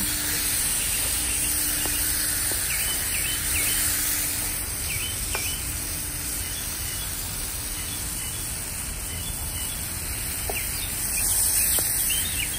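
Marinated chicken pieces sizzling in hot oil in a pan over a charcoal fire, a steady hiss while they are stirred with a wooden spoon. Small birds chirp briefly a few times.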